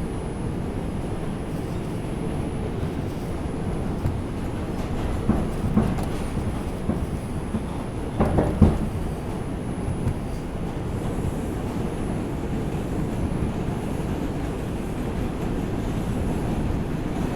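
Inside an R142 subway car running between stations: a steady rumble from the train on the track, with a few louder knocks about five to six seconds in and again around eight to nine seconds.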